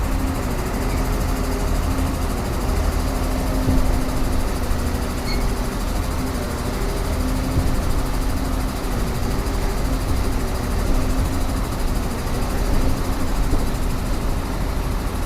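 Excavator engine running steadily at idle: a continuous low hum with no change in pitch.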